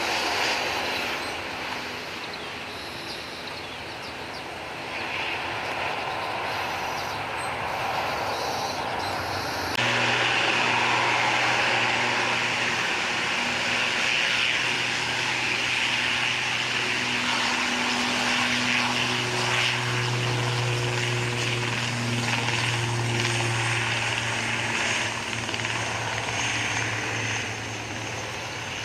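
A Boeing 737-800's jet engines run with an even hiss. About ten seconds in, this changes abruptly to an ATR 72-500's twin turboprop engines, a louder, steady propeller drone with a low hum, at power for take-off.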